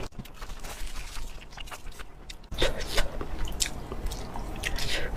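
Close-up eating sounds: a person chewing food, with a scatter of short, crisp crunches and wet mouth clicks that grow denser about halfway through.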